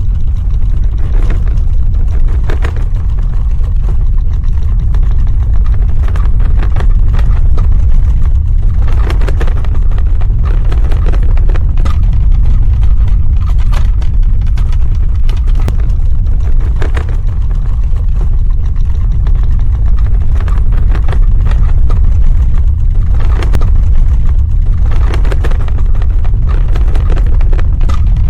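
Earthquake sound effect: a loud, continuous deep rumble with scattered crackling clicks on top, which grow thicker about ten seconds in and again near the end.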